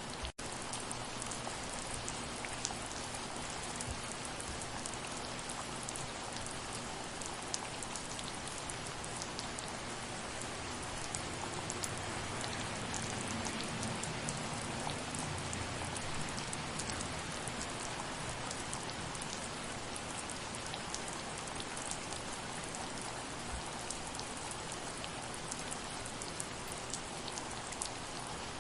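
Steady soft rain: an even hiss of falling rain with many individual drops ticking throughout, and a faint low rumble swelling in the middle.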